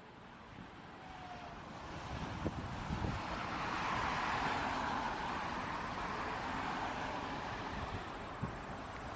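Jet airliner taking off: a broad rush of engine noise that builds to a peak about four to five seconds in, then slowly fades as the aircraft passes.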